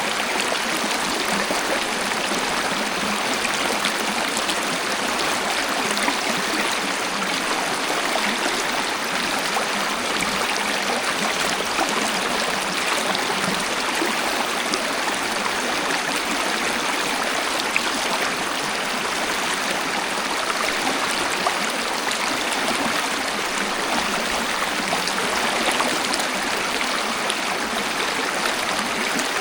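Waterfall water rushing and splashing steadily, an even hiss with little deep rumble and no breaks.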